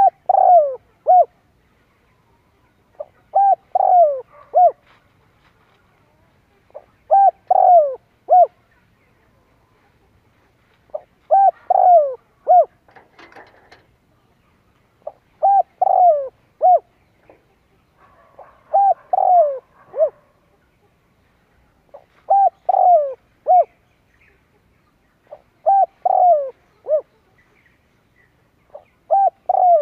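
Spotted dove (cu gáy) cooing: a short phrase of three or four low coos, repeated about every four seconds, eight times over. This is the call a decoy dove gives to provoke wild males. Faint chirps from another bird come in twice between phrases.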